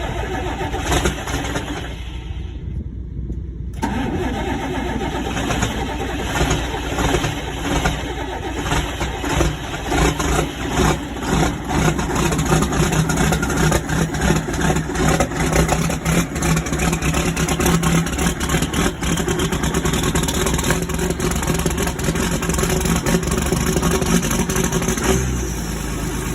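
John Deere diesel tractor engine cold-starting and running with a steady diesel clatter. The sound thins for about two seconds early on, then the engine runs on and grows somewhat louder.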